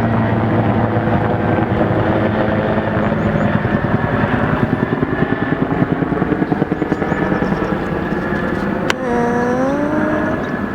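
Helicopter flying over, loud, its steady engine drone overlaid by a pulsing rotor beat through the middle. Near the end a sharp click, then a short rising squeal.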